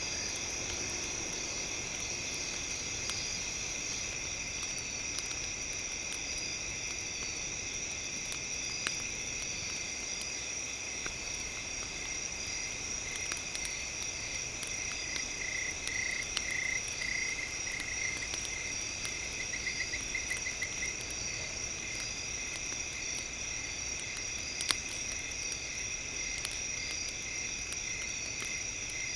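Campfire crackling, with scattered small pops and one sharper pop near the end, over a steady high-pitched chorus. A pulsing trill rises out of the chorus about halfway through.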